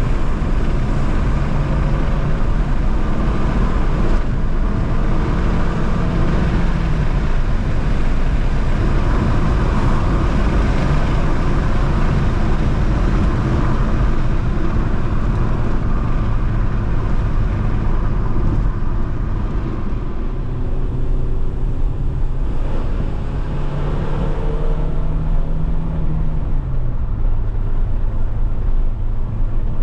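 Alfa Romeo 156 1.8 Twin Spark four-cylinder engine pulling on the road, its revs climbing and then dropping back several times, over steady road noise.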